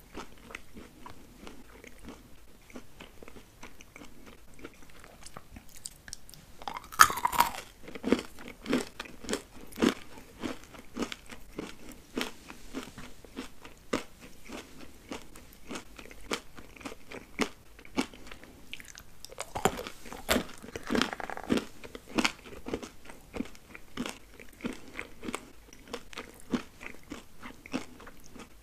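Close-miked chewing of chocolate candies: a steady run of small chewing clicks, with a louder crunching bite about seven seconds in and another about twenty seconds in.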